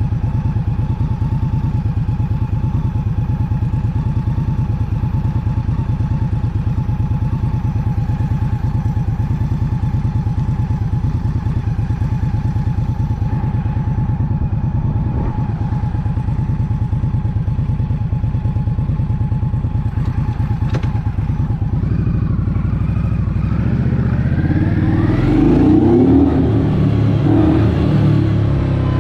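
Motorcycle engine running at a steady speed. About three-quarters of the way through it rises and falls in pitch and gets louder.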